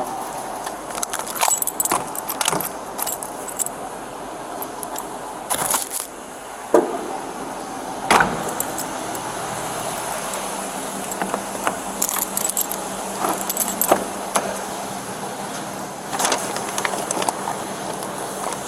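Metal jingling and clinking, like a bunch of keys, coming in several short clusters over a steady background hum.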